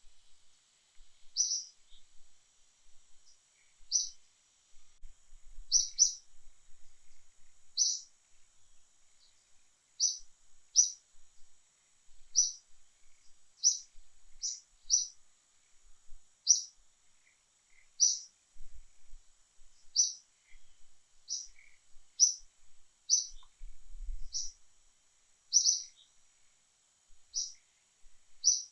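A bird giving short, high, sharp chirps over and over, about one every one to two seconds, over a faint steady high-pitched hiss.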